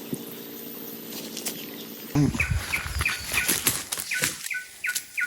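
A bird call of short falling notes repeated evenly, about three a second, over rustling and knocking handling noise. Before it, for about the first two seconds, there is a steady low hum that stops abruptly.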